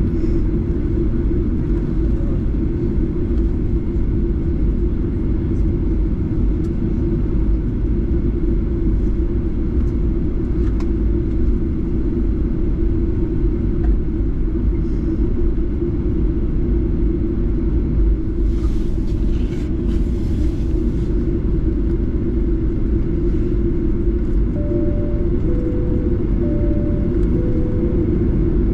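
Steady rumble and hum of a Boeing 737-8's CFM LEAP-1B engines heard inside the cabin near the engine, holding an even level. Near the end a two-tone high-low cabin chime sounds twice.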